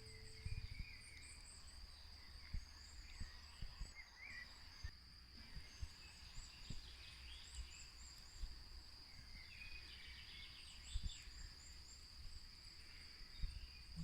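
Quiet forest ambience: a steady high insect trill, with scattered bird chirps and faint, irregular low thumps.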